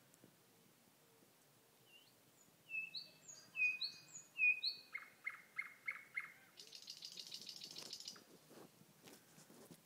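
A thrush nightingale sings one song phrase starting about a quarter of the way in: a few sharp whistled notes, a run of about five lower repeated notes, then a dry rattling trill, trailing off into soft clicks.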